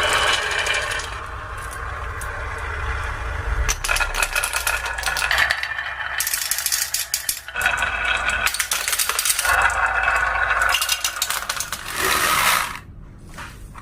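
Many marbles rolling and clattering down a marble run, a dense rattle of small clicks and knocks that drops away shortly before the end.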